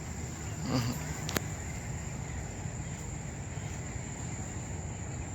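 A steady high-pitched whine over a low rumble, with a brief faint voice-like sound and a single sharp click about a second in.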